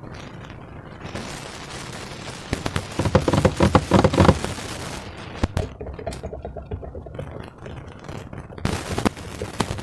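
Slime being squished and worked by hand, a dense run of wet crackling and popping, loudest about three to four seconds in, with a few sharper single pops later.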